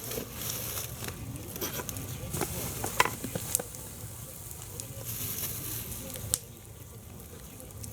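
Log campfire (a Finnish candle fire) burning with a steady hiss and scattered crackles, with sharp snaps about three seconds in and again near six seconds.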